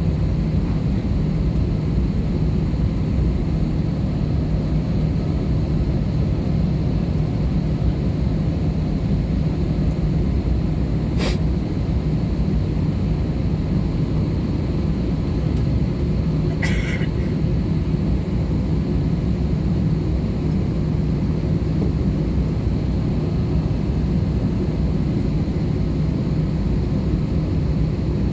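Steady airliner cabin noise inside an Airbus A320-214 in flight: its CFM56 jet engines and the airflow make a constant rumble and hiss with a low steady hum. Two brief sharp clicks or knocks come about 11 and 17 seconds in.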